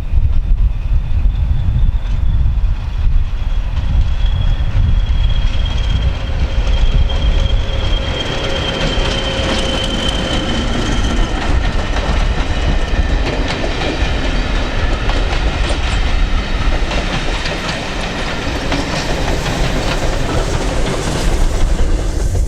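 A train passing on the rails with a heavy low rumble. A thin high whine sounds in the first half, and rapid clicking of wheels over the rail joints builds in the second half.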